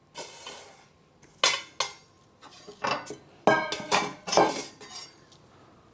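Kitchenware clinking and clattering: a string of sharp knocks with a short metallic or ceramic ring, as a knife and dishes are handled during food prep. The knocks come irregularly, most of them bunched in the middle.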